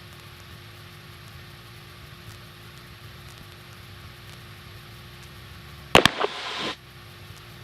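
Light airplane's engine running at taxi power, a steady low hum. About six seconds in comes a sharp click, then a short burst of hiss.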